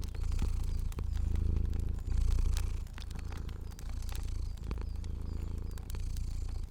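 A cat purring close up, swelling and easing about once a second with each breath in and out, with the scattered pops and crackles of a fire over it.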